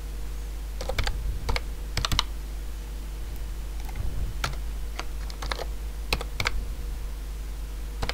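Computer keyboard typing in short, irregular runs of keystrokes, over a steady low electrical hum.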